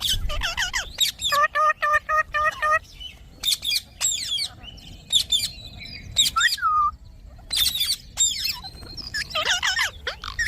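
Indian ringneck parakeet chattering in quick high chirps and sweeping whistles, with a run of about seven short repeated squawk-like notes, some five a second, starting about a second in.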